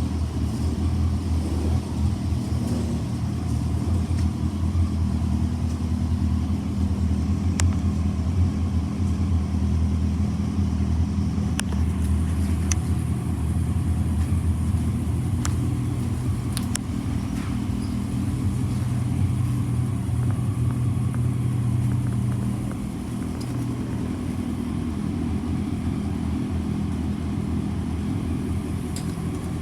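Kawasaki W650's air-cooled parallel-twin engine running at a steady idle, with a few light clicks. About three quarters of the way in, the idle settles slightly lower and quieter.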